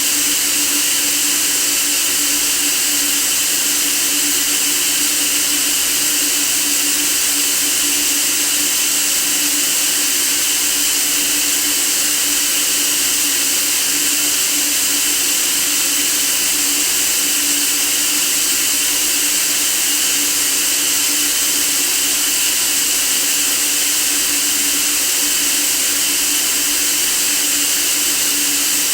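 White noise: a steady, even hiss strongest in the treble, with a faint low hum beneath it.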